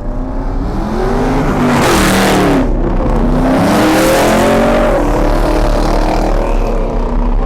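A performance car's engine revving hard, its pitch climbing and dropping several times, with the loudest surges about two and four seconds in.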